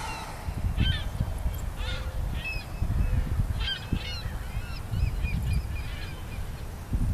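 A flock of gulls calling: many short calls, several birds overlapping, over a steady low rumble.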